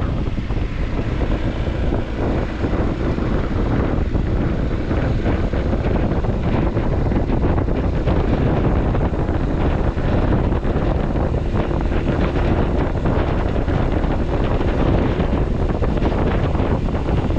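Wind buffeting the microphone of a Honda ADV350 scooter on the move, a steady loud rush heaviest in the low end, with the scooter's single-cylinder engine running beneath it.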